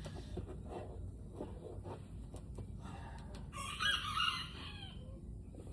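A rooster crows once, about a second long, a little past halfway through, over faint handling noises.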